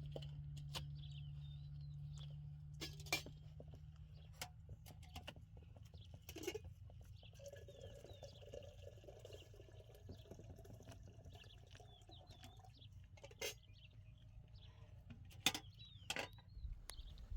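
Faint outdoor ambience: small birds chirping over a low steady rumble, with a few sharp knocks scattered throughout.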